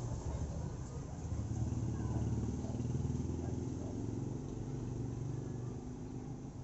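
A motor vehicle engine running with a steady low hum that slowly fades, with a few faint bird chirps over it.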